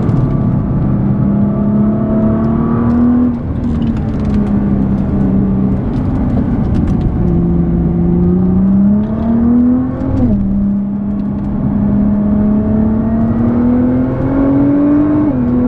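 A tuned Nissan GT-R R35's twin-turbo V6, heard from inside the cabin, pulling hard on track. Its pitch climbs steadily and drops sharply at each upshift: about three seconds in, about ten seconds in, and near the end. It eases off briefly around six seconds in before climbing again. A steady rumble of road and tyre noise runs underneath.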